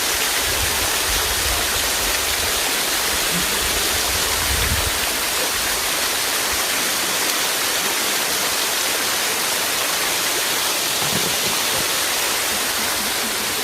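Small waterfall running with a light flow, a steady rush of falling water heard close up. A low rumble sits under it for the first five seconds or so.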